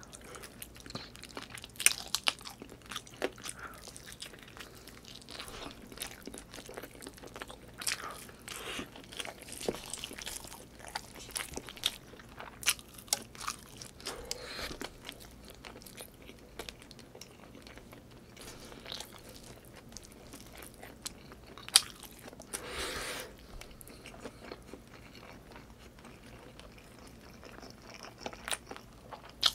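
Close-miked chewing and biting of chicken adobo with rice, eaten by hand: irregular sharp mouth clicks throughout.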